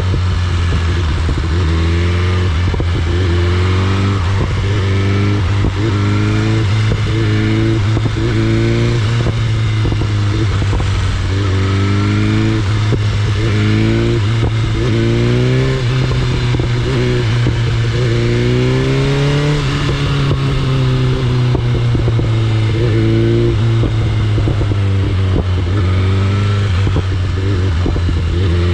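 BMW S1000RR's inline-four engine running under way, its pitch rising and dropping back again and again, about once a second, over a steady low drone.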